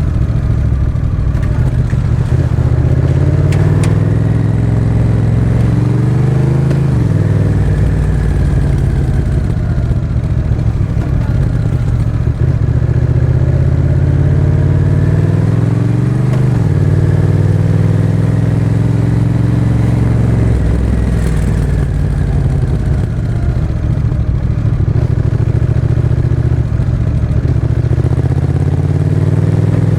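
Exhaust of a Honda CMX1100 Rebel's parallel-twin engine, through a Miller exhaust with the Racing dB-absorber baffle, while riding. The engine note climbs in several pulls and drops sharply about three times, at gear changes or when the throttle is closed.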